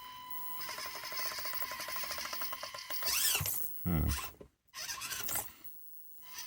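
Axial SCX24 micro RC crawler's small electric motor and gear drive running under load, a fast gear chatter, then whining up and down in pitch a few times as the throttle is worked on a climb, before going quiet near the end.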